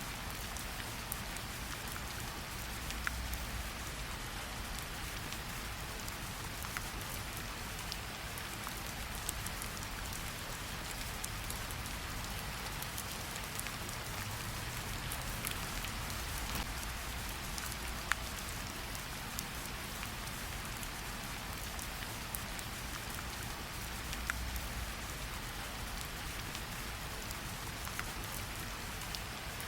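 Steady rainfall, an even hiss of rain on surfaces with single drops ticking here and there, and a low rumble that swells now and then.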